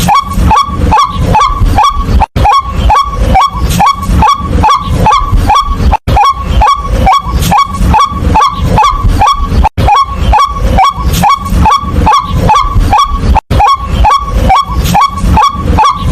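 White-breasted waterhen calling: a loud, monotonous run of 'kwak' notes, each sliding sharply up to its pitch, about three a second. The run is broken by short silent gaps every three to four seconds.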